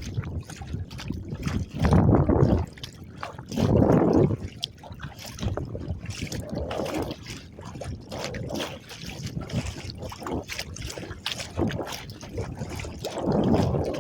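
Choppy lake water splashing and slapping against the hull of an Argo 100XR kayak as it is paddled through wind-driven waves, with three louder surges about two, four and thirteen seconds in.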